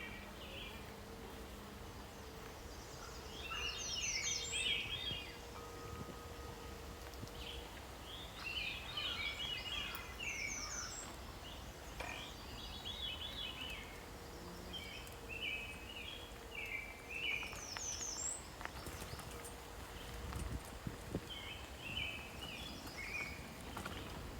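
Songbirds singing short, repeated chirping phrases every few seconds, with a few high, quick downslurred notes, over a faint low rumble.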